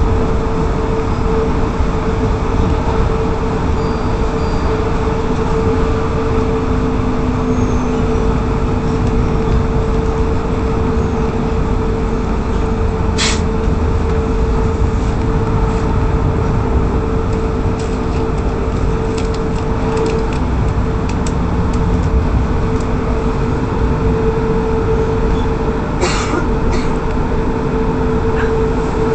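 Brisbane electric suburban train running, heard from inside the carriage: steady running noise with a constant hum through it, and two sharp clicks, about halfway through and again near the end.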